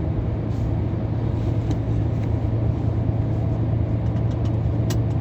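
Scania R500 tractor unit's V8 diesel engine and road noise droning steadily inside the cab while cruising, with a few faint ticks near the end.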